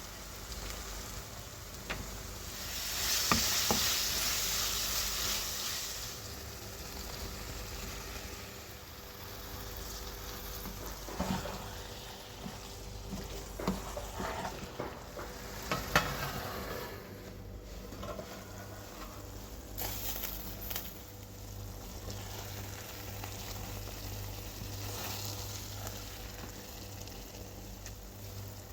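Vegetables frying in hot oil in a pan, sizzling steadily, with a spoon stirring and knocking against the pan now and then. The sizzle swells loud for a few seconds near the start.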